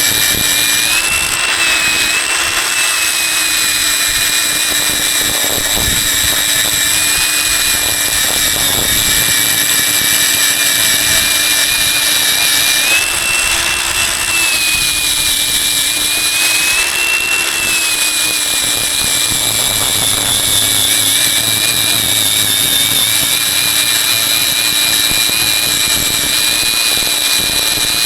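A high-speed electric power tool motor running continuously with a steady whine, its pitch rising slightly for a moment several times, as happens when the load on the tool eases.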